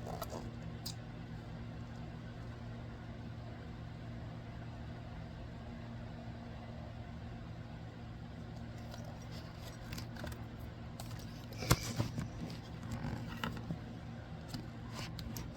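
Steady low hum with faint scattered ticks and one sharp click about twelve seconds in.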